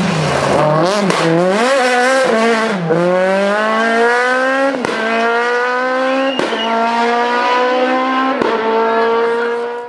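Rally car engine at full throttle. The revs rise and fall quickly a few times, then climb steadily and hard, with three sharp cracks along the way. It cuts off abruptly at the end.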